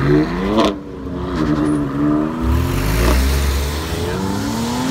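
A car engine revving hard on an autocross course, its pitch climbing, cutting off sharply under a lift or shift under a second in, then climbing and falling again several times as the car accelerates and brakes between cones.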